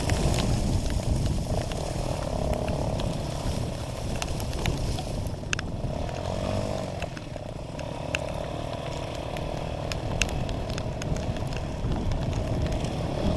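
Dirt bike engine running while riding, its pitch dipping and rising with the throttle, over heavy wind rumble and scattered sharp clicks.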